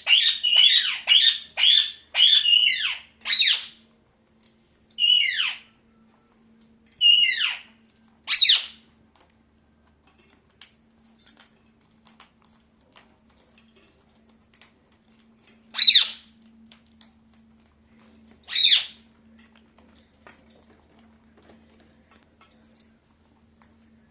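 Pet parakeet squawking: a quick run of harsh calls that each drop in pitch, about two a second for the first few seconds, then single calls a second or more apart, and two last isolated squawks well after the middle.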